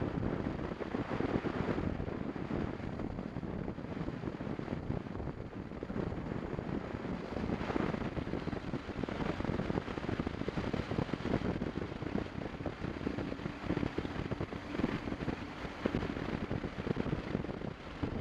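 Motorcycle riding along: engine running with wind rushing over the microphone, a steady rumble that holds through.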